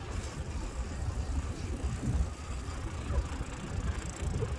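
Low, uneven rumble of riding a bicycle, picked up on a phone carried along, with no distinct events standing out.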